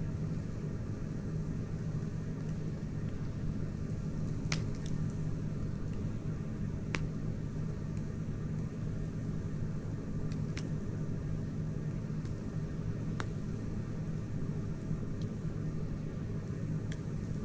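Wood campfire burning: a steady low noise of the fire with a few sharp crackles and pops from the burning wood, scattered a few seconds apart.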